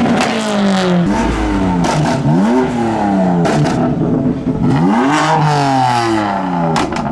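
Modified car engine revved hard several times, its pitch climbing and falling back about three times, with a few sharp cracks in between.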